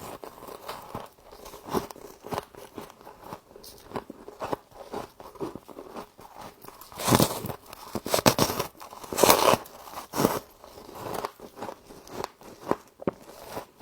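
Frost being bitten and chewed, a run of crisp crunches and crackles, loudest in a cluster of bites about seven to ten seconds in.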